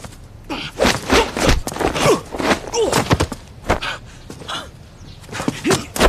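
Two men wrestling hand to hand: short grunts and cries of effort, with repeated thuds and scuffs of bodies and feet.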